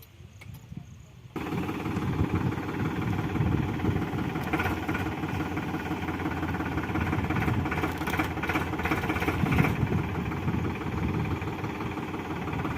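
Powertrac Euro 50 tractor's diesel engine running steadily, cutting in abruptly about a second and a half in after a quieter start.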